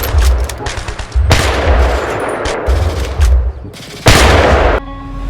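Loud bursts of gunfire with a heavy pulsing low thump beneath them, and two louder blasts, one a little over a second in and one about four seconds in. Steady musical tones come in near the end.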